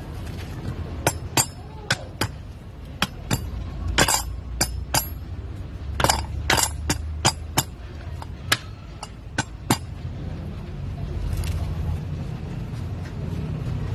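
Metal automatic-transmission parts clinking and knocking against each other as they are handled, in a string of sharp separate clinks over the first ten seconds. A steady low hum follows.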